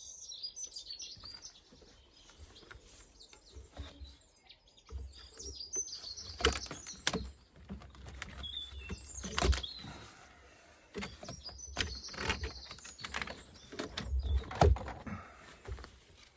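Intermittent sharp clicks and knocks of hand work on the car, as the air intake pipe is fitted back and tightened, with the two loudest knocks about nine and a half and fourteen and a half seconds in. Birds chirp in the background.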